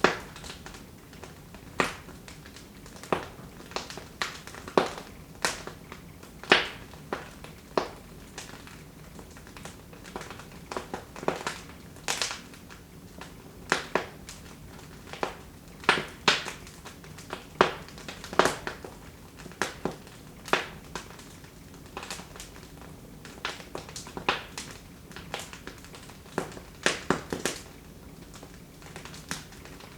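Wood fire in a fireplace crackling: irregular sharp pops and snaps, one every second or so with some quick clusters, over a faint steady hiss of burning.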